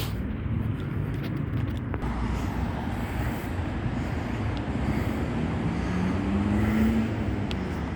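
Hyper nitro race engine in an RC car running near idle, its pitch rising and easing back briefly near the end. The idle is still not set right, as the owner says.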